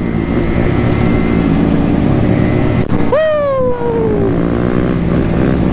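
Small two-stroke Yamaha Razz scooter engine running steadily under way. About three seconds in, a rider lets out one long falling shout over it.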